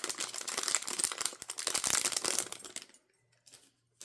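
Packaging crinkling and rustling as an item is unwrapped by hand, stopping about three seconds in, then a couple of light clicks.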